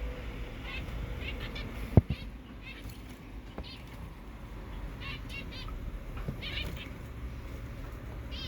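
Zebra finches calling: short nasal chirps in quick clusters. A single sharp knock about two seconds in.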